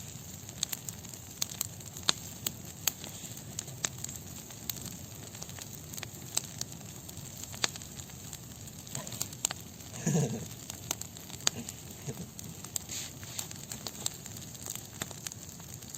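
Wood bonfire burning, crackling with irregular sharp pops over a steady low hiss. A brief human voice sound about ten seconds in.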